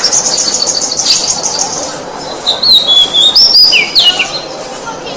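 Oriental magpie-robin (kacer) singing: a fast chattering trill of high notes in the first second, then a run of clear whistled notes that slide up and down in pitch from about two and a half to four seconds in.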